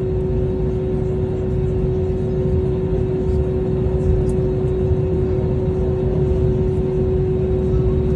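Airbus A320neo (A320-271N) with Pratt & Whitney PW1100G geared turbofans running at low power: a steady hum carrying one strong, even tone over a low rumble.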